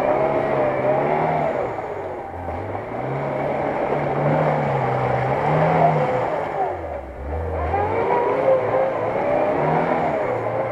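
Lada Niva's engine revving up and down in repeated surges, with a short dip about seven seconds in, as the SUV rocks back and forth stuck in deep mud, its wheels churning through mud and water.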